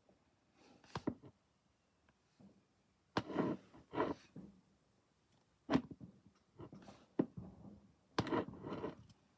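Faint bangs and crackles of fireworks going off in the distance, about six irregular reports over several seconds, each with a short tail.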